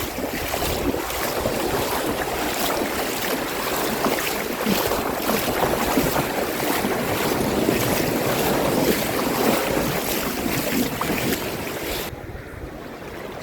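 Seawater washing and surging close to the microphone, with wind buffeting the microphone. About twelve seconds in, the high hiss cuts off abruptly and the water goes on more softly.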